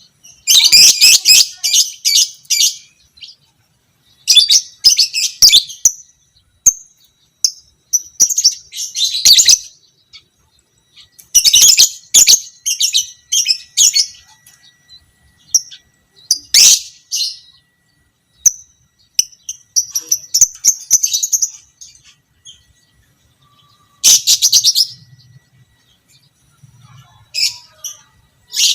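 Lovebird singing its ngekek song: repeated bursts of rapid, high-pitched chattering trills, each a second or two long, with short pauses between.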